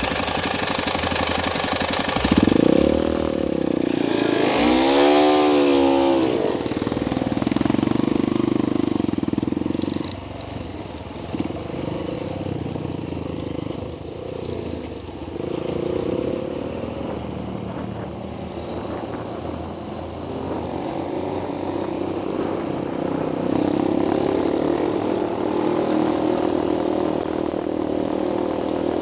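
Trail motorcycle engine under way, its revs climbing and dropping several times between about two and six seconds in, then running steadily. It eases off at about ten seconds and builds again after about twenty-three.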